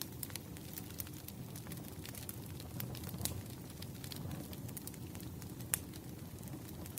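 Firewood burning: a steady low rumble of flames with scattered sharp crackles and pops, one louder pop a little before the end.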